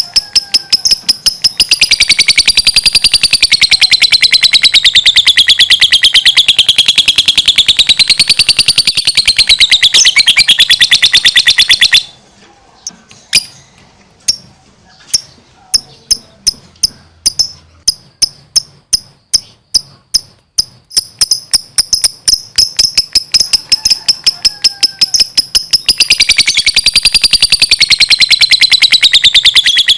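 Lovebird singing a long, rapid, shrill chattering trill. It breaks off about twelve seconds in into scattered separate chirps, then picks up the continuous trill again a little past twenty seconds.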